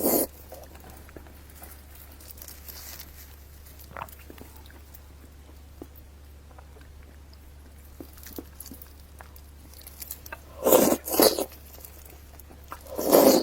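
A person eating close to the microphone: chewing and biting, with small scattered mouth clicks, and two louder spells of chewing about ten seconds in and again near the end.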